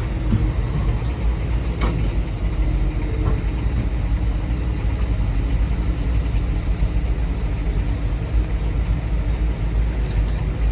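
Steady, low machine rumble like an engine running at idle, with a single sharp click about two seconds in.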